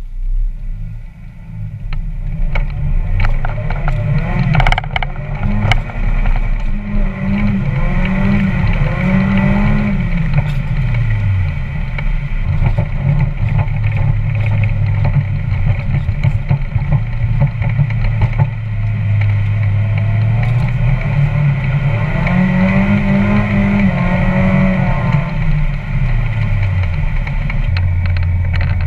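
1996 Mazda Miata's 1.8-litre four-cylinder, breathing through an aftermarket header and catback exhaust, revving up and down twice with a steadier stretch in between. Scattered clanks come from the loose camera mount.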